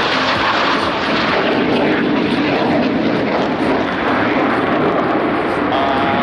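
Blue Angels F/A-18 Super Hornet jet engines overhead, a loud, steady rush of jet noise.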